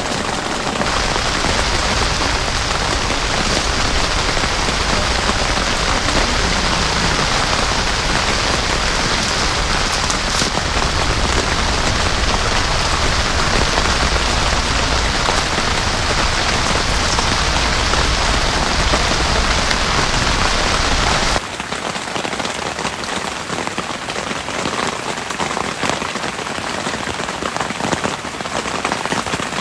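Heavy rain falling in a steady downpour. About two-thirds of the way in the sound changes abruptly, losing its low rumble and becoming a little quieter.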